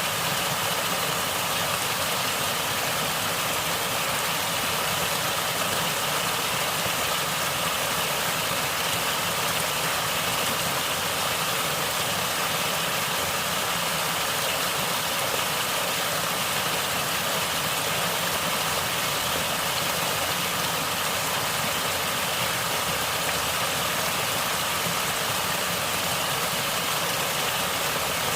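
Natural water flowing steadily: a continuous, even rushing hiss with no breaks or separate splashes.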